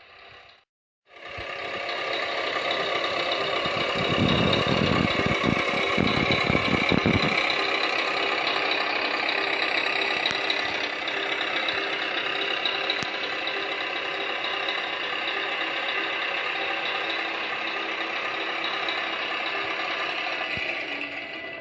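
A Tamiya 1:14 Scania R560 radio-controlled model truck running, with a steady, rattling engine-like sound. It starts just after a short gap and rumbles more deeply for a few seconds early on.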